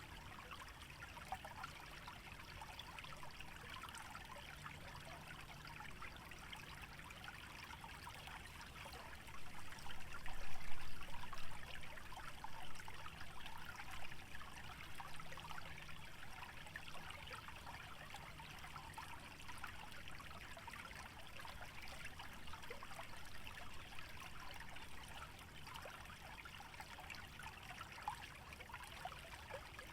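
Small stream trickling through a wetland: a steady, fine-textured babble of water. It swells louder for a few seconds about a third of the way in, then settles back.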